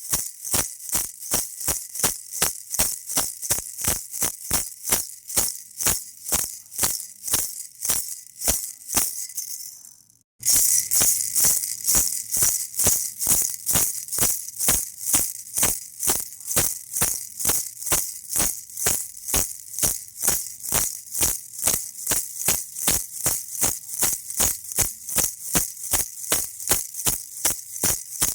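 Baby rattle shaken in an even rhythm, about three shakes a second, each a bright, hissy rattle. About ten seconds in it fades to a brief silence, then starts again at once, louder.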